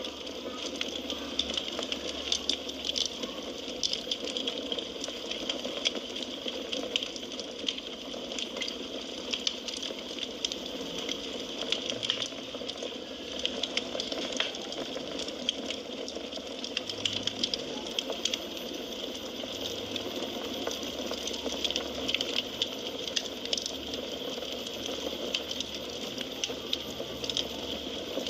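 Firewood burning in a fireplace: a steady hiss of flames with frequent small, sharp crackles and pops.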